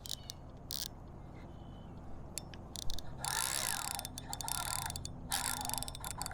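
Fishing reel running in bursts of rapid, fine ticking while a hooked fish is fought, first about three seconds in and again about two seconds later.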